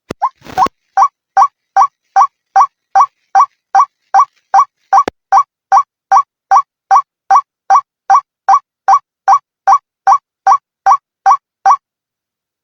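White-breasted waterhen (ruak-ruak) calling as a bird-lure recording: one short, upward-swept note repeated evenly about two and a half times a second, stopping shortly before the end.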